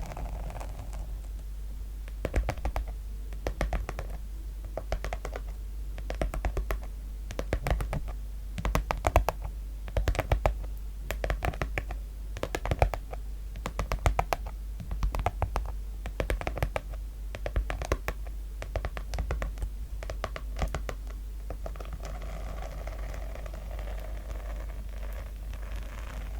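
Scratching on a sequin-covered notebook cover: a run of short rasping strokes, about one or two a second. They start about two seconds in and stop a few seconds before the end.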